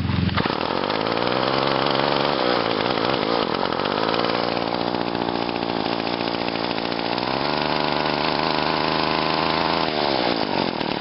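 Old two-stroke string trimmer engine running, its pitch rising and falling unevenly as the revs wander, then dropping away near the end. It has not run in a long time and runs rough, stalling easily.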